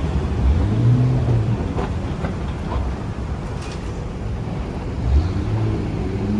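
Vintage electric tram running along the street, heard from inside: a steady low rumble of wheels on rail, with a motor hum that rises and falls and a few scattered clicks.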